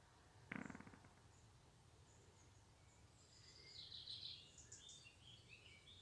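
Near-silent garden background with faint bird chirps, mostly from about three to four and a half seconds in, and one brief sound about half a second in.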